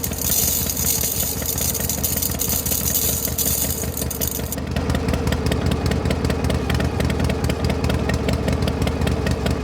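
A small engine-like motor running steadily with a rapid, even knocking, like an idling tractor; a high hiss sits over the first four and a half seconds.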